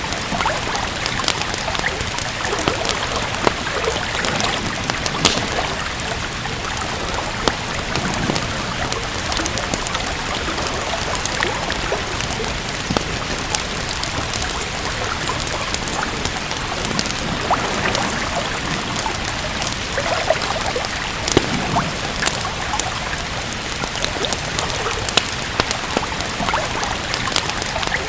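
Steady rain mixed with the crackle of a wood fire: an even hiss dotted with frequent sharp pops and clicks.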